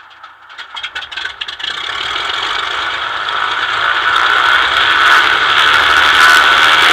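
Cessna 206's flat-six piston engine and propeller going from idle to full takeoff power, the sound growing steadily louder from about a second in and levelling off near the end, with some rattle.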